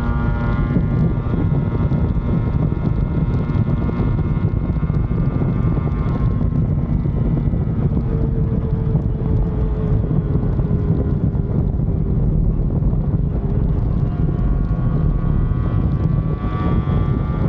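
Yamaha RD250's two-stroke twin engine running on the road under heavy wind noise on the microphone, its note falling over the first couple of seconds as it eases off, then climbing again near the end.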